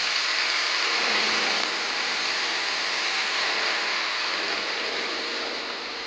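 Steady rushing noise, an even hiss that swells over the first second and eases slightly toward the end.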